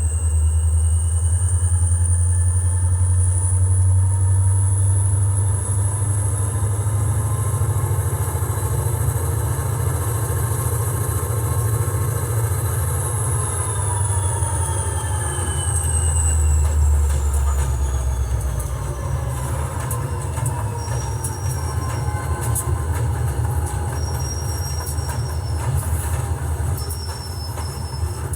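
Train running: a steady low rumble under high squealing tones that slowly rise and then fall away, with three short high squeals near the end.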